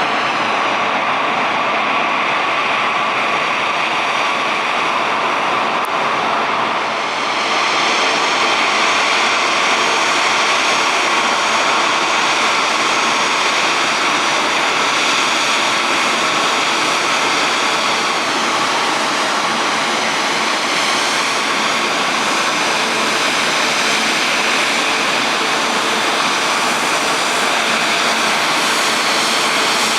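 Jet engine noise. About seven seconds in it changes to a Japan Airlines Airbus A350-900's Rolls-Royce Trent XWB engines at low taxi power, a steady whine with several high tones, as the airliner taxis into its parking stand.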